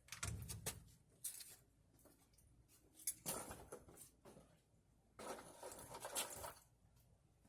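Mechanic's creeper shifting on the floor as someone gets onto it to slide under a truck: faint scattered knocks and clicks, a low thump near the start, and two longer scraping rustles.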